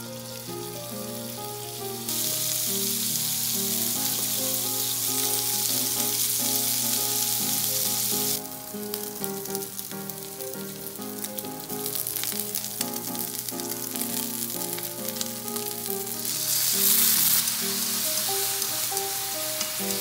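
Pork-wrapped green bean and carrot rolls sizzling in hot oil in a frying pan; the sizzle gets louder about two seconds in, drops back briefly around the middle, and swells again near the end. Background music plays under it.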